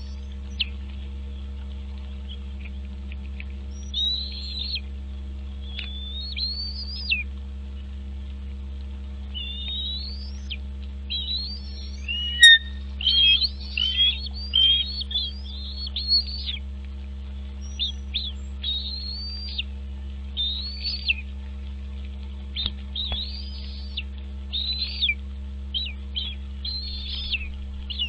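Bald eagle chirping: runs of thin, high whistled calls that sweep upward, busiest from about twelve to seventeen seconds in. A steady low electrical hum sits under it, and a single sharp click comes about twelve seconds in.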